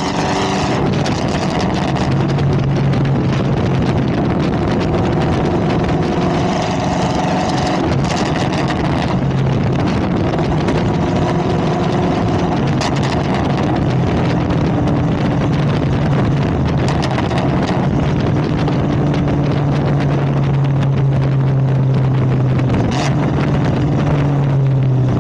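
Straight-piped 2022 Chevrolet Camaro ZL1's supercharged 6.2-litre V8, run through 2-inch long-tube headers with no mufflers, droning loudly at a steady cruise. Its pitch dips and rises slightly a few times.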